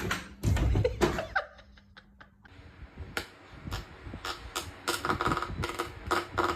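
Two heavy thumps in the first second, then a rapid run of sharp clicks and knocks, several a second.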